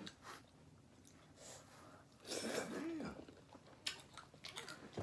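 Close-up mouth sounds of eating pizza: chewing with small wet clicks and smacks, and a short hummed voice sound about two and a half seconds in.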